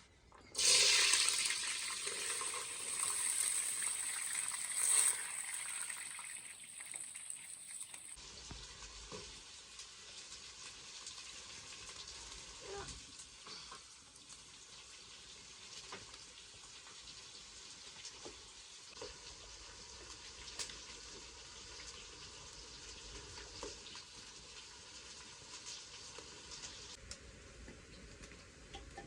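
Food sizzling and frying in hot oil in a pan: loud at first, then an abrupt change about eight seconds in to a quieter sizzle with scattered small ticks and pops.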